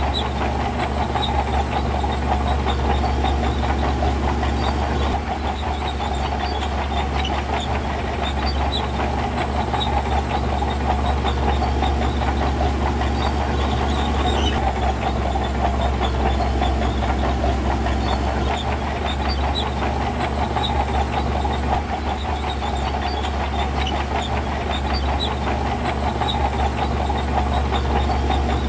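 Heavy diesel earthmoving machinery running steadily, with a constant rattle of small metallic clicks and clanks over the engine's low drone.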